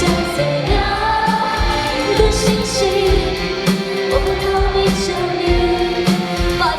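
Pop song played live, with singing in long held notes over a backing track with a steady drum beat.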